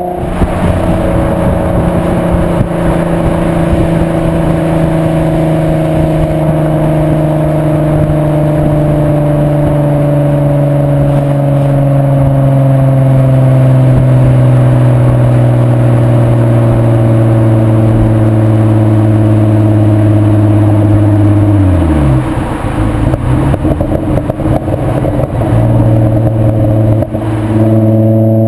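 VW Bora mk4 2.8 VR6 24V engine under way through a Milltek non-resonated exhaust: a steady drone whose pitch sinks slowly as the revs ease off. About 22 seconds in the revs drop away sharply. A rougher, noisier stretch follows, and then the steady engine note returns.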